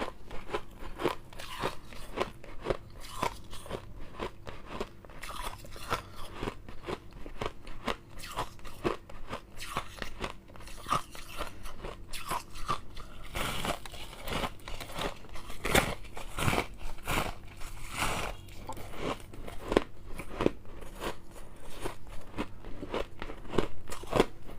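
Close-up crunching and chewing of hard refrozen shave ice, a quick irregular run of crisp crunches with a few louder bites.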